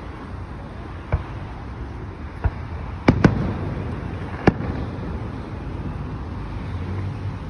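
Aerial fireworks shells bursting: about five sharp bangs, the loudest a quick pair about three seconds in, followed by a low rumbling echo.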